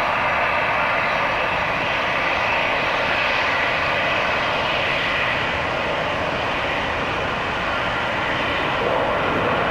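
Jet airliner engines running loud and steady, a rushing noise with a faint steady whine through it.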